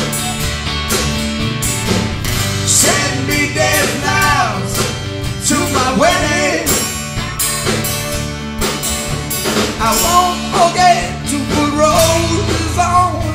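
Live rock band playing a country-rock song, with a lead line sliding and bending in pitch over the steady guitar and bass accompaniment.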